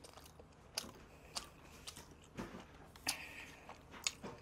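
Faint close-miked chewing of soft, oily, donut-like fried bread: wet mouth sounds with a scatter of short lip-smacking clicks.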